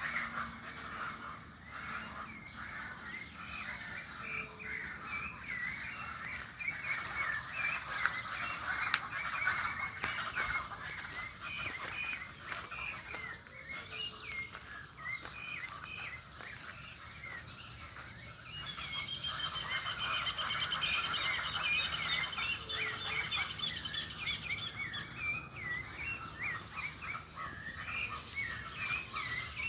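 A chorus of many birds chirping at once, a constant overlapping chatter of short calls. Several seconds of one bird's fast, even trill stand out past the middle, and thin high notes repeat now and then.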